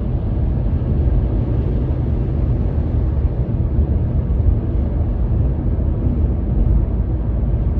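A loud, steady low rumble with no breaks or changes.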